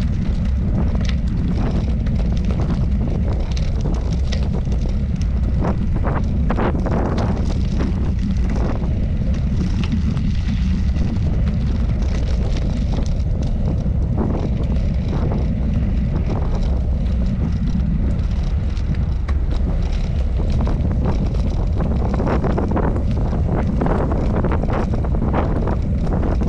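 Wind buffeting the microphone of a camera on a moving bicycle: a steady low rumble, with scattered short rattles or clicks over it.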